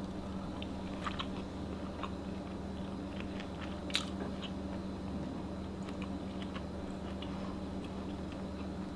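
A person chewing a mouthful of pan-seared steak: faint, scattered mouth clicks with one louder click about four seconds in, over a steady low hum.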